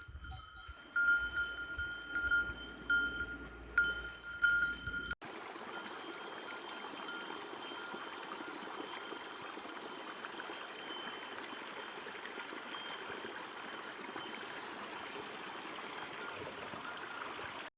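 Livestock bells clanking irregularly for about five seconds, then, after an abrupt cut, the steady rush of flowing stream water.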